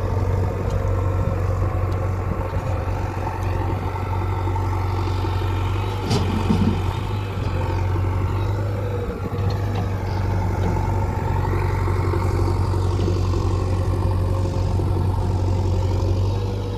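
Heavy diesel engine running steadily at a low, even note, with one short knock about six seconds in.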